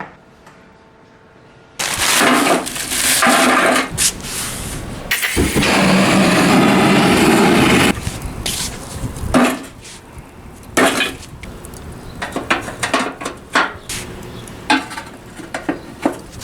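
Loud steady noise starting abruptly about two seconds in and stopping abruptly near the middle, followed by a string of irregular knocks, clinks and scrapes of hard objects being handled.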